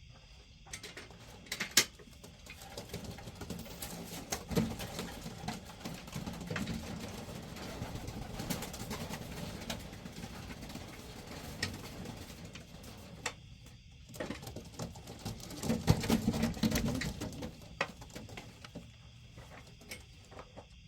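Homing pigeons cooing in a loft, with rustling, scuffling and sharp knocks throughout; the loudest bursts come about 2 s in and again around 16 s.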